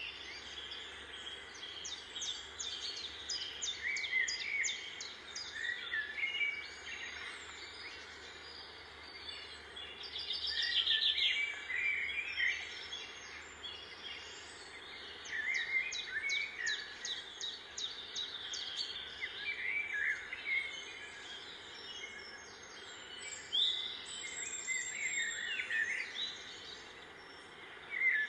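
Small birds chirping and calling again and again, with quick trills every few seconds.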